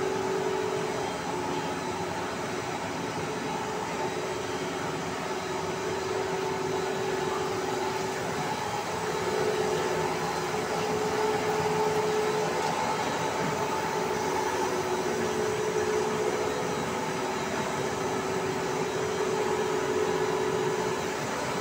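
Stretch film extrusion line running: a steady mechanical hum and whirr with a faint tone that fades in and out.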